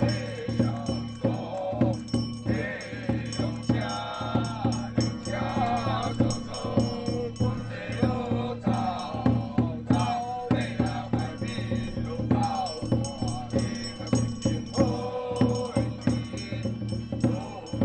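Ritual chanting sung by voices over a steady beat of struck percussion with jingling, as in the rites of a Taiwanese temple ceremony.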